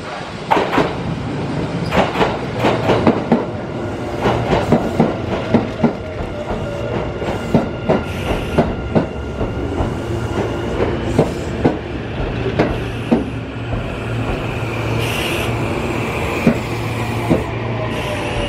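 Kintetsu limited express electric train pulling in along the platform. Its wheels click sharply and irregularly over rail joints and points over a steady low hum and a faint high whine. The clicks come thick in the first six seconds or so and thin out toward the end as the train slows.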